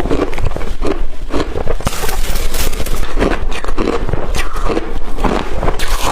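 Blender-crushed ice being bitten and chewed close to the microphone: a dense, irregular run of crisp crunches and crackles. A faint steady low hum sits underneath.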